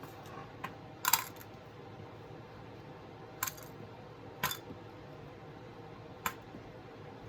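Small metal jump rings clicking and clinking as they are handled and dropped back into a container: about five short sharp clicks spread out, the loudest a quick cluster about a second in.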